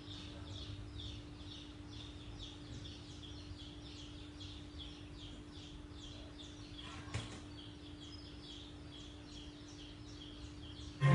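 A bird calling a rapid series of short, high, falling chirps, about three a second, that fade out about halfway through, over a steady low hum. A single click comes about seven seconds in.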